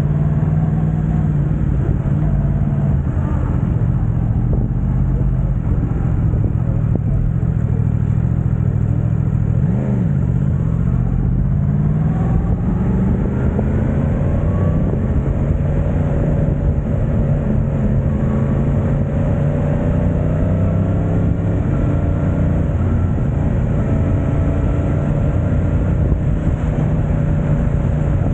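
Yamaha YZF-R1's crossplane inline-four running through an Akrapovic exhaust at a steady note. About ten seconds in the revs dip and rise briefly, then climb gradually over a few seconds and hold.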